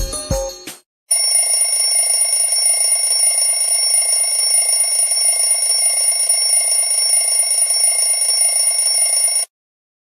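Mobile phone ringtones: a melodic ringtone with a beat ends in the first second, then after a short gap a steady, high-pitched electronic ring sounds without a break for about eight seconds and cuts off suddenly.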